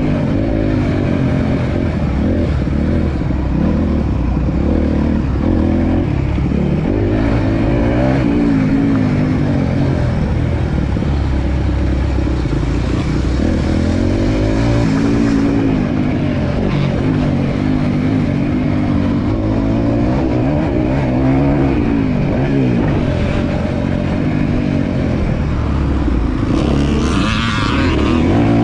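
Single-cylinder four-stroke motocross bike engine being ridden hard, its pitch rising and falling over and over as the throttle is opened and closed. A brief rush of noise comes near the end.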